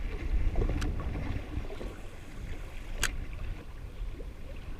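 Choppy water slapping against a drifting jet ski's hull, with low wind rumble on the microphone. Two sharp clicks, about a second in and about three seconds in.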